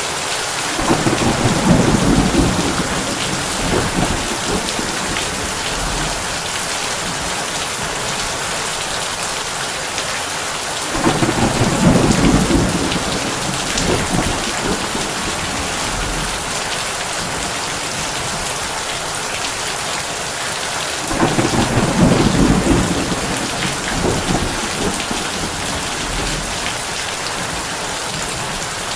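Heavy rain drumming steadily on a tin roof, with three low rolls of thunder about ten seconds apart, each swelling and fading over a few seconds.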